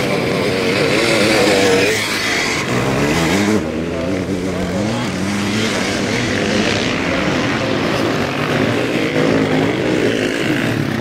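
Sidecar motocross outfits' engines racing, several at once, their pitch rising and falling as the riders work the throttle and shift gears.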